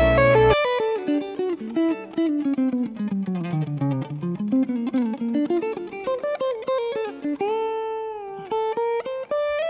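Electric guitar playing a fast single-note jazz line. It runs down to low notes and back up, then ends on a few longer notes that slide in pitch. A fuller low backing sound cuts off just after the start.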